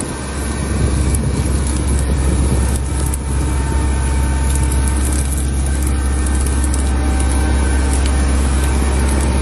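Heavy vehicle engine running steadily, with a strong low drone.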